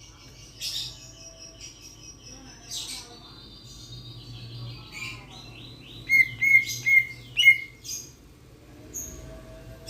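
Raja perling, a Sulawesi starling, calling in sharp, high chirps and whistles that drop in pitch. The calls are scattered, with a quick run of four loudest calls about two-thirds of the way through.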